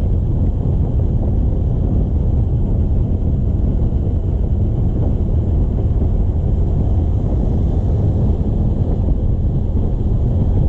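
Steady wind buffeting on the microphone of a moving motorcycle, mixed with the low rumble of the engine and road.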